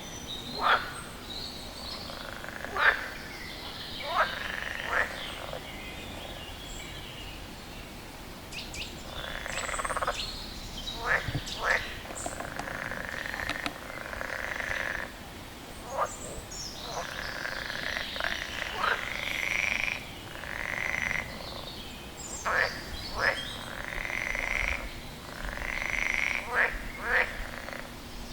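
Frog calling: short, sharp croaks repeated at irregular intervals, about a dozen in all. Under them runs a series of longer, higher buzzing calls about a second each.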